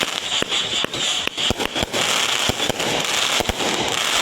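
Fireworks going off: about a dozen sharp bangs at uneven spacing over a continuous crackling hiss.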